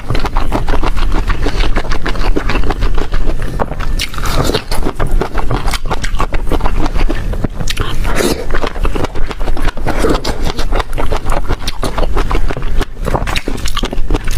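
Person biting and chewing crunchy food close to the microphone, a dense run of loud crackling crunches.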